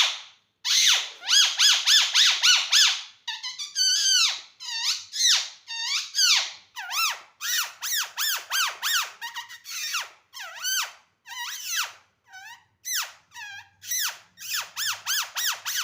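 Indian ringneck parakeet (rose-ringed parakeet) giving a long run of shrill squawking calls, each a short note that rises and falls in pitch. The calls come in quick clusters, several a second, with a steadier string of single calls through the middle and another fast cluster near the end.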